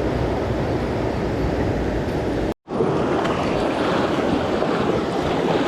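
Swollen mountain stream rushing steadily in spate. About halfway through it cuts out for a moment and comes back brighter.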